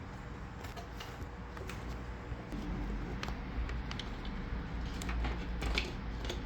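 Faint handling noise: scattered light clicks and rustles of hands working a cable and parts on the motorcycle, over a low steady rumble.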